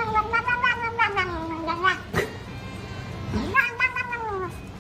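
A cat yowling in two long drawn-out meows, the first running to about two seconds in and the second starting about three and a half seconds in, with a short sharp click between them.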